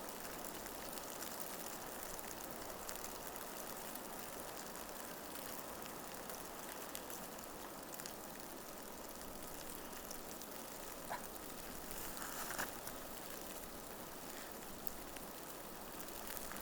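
Steady soft hiss and patter of falling snow in a blizzard, with a few faint ticks about two-thirds of the way through.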